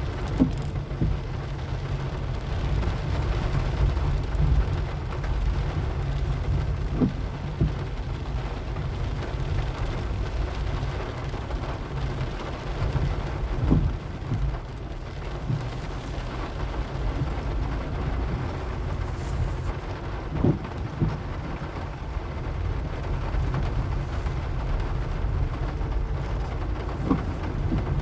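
A car driving in the rain: a steady low rumble of engine and tyres under a hiss of rain, with a short knock about every seven seconds.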